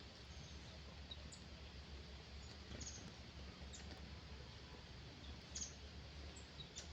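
Faint, short high-pitched bird chirps, scattered about once a second, over a low steady hum.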